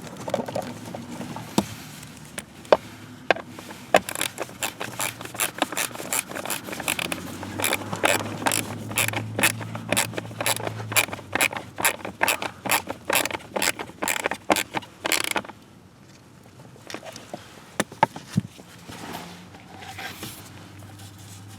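Hand repair work: a long run of quick, irregular mechanical clicks and scrapes, thickest in the middle and thinning out about fifteen seconds in, with a few scattered clicks after.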